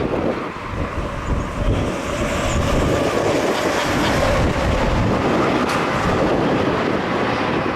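Strong wind blowing over the microphone: a loud, continuous, rumbling rush.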